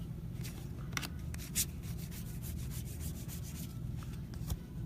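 Trading cards being slid and flipped through by hand, a quick string of short paper swishes, over a steady low hum.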